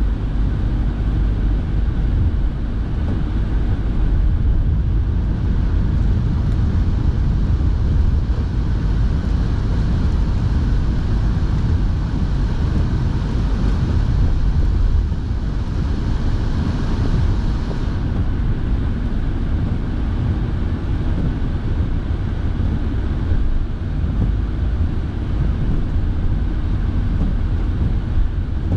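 Steady low rumble of a car heard from inside the cabin while driving on wet roads, with the heater fan blowing. A brighter hiss builds about twelve seconds in and stops abruptly about six seconds later.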